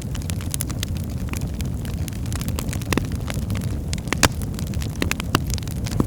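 Birchwood fire burning in a hearth: a steady low rumble of flames with irregular sharp crackles and pops, one louder pop about four seconds in.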